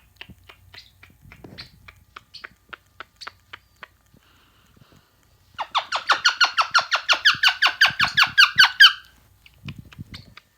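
A pet parrot giving a fast run of short, repeated, squeaky calls, about seven a second, lasting some three seconds past the middle. Before it come faint scattered clicks and rustles.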